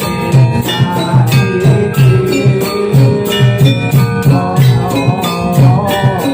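Javanese jathilan (kuda kepang) accompaniment music: a steady drum beat about twice a second under ringing metallic gamelan-style percussion, with a wavering melody line coming in near the end.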